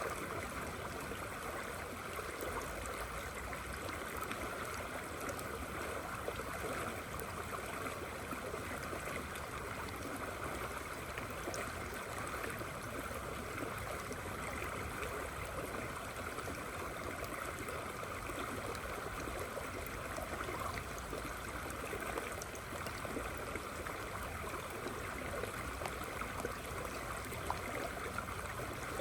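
River water flowing steadily, with rain falling on and around it: a constant rushing wash with faint scattered drop ticks.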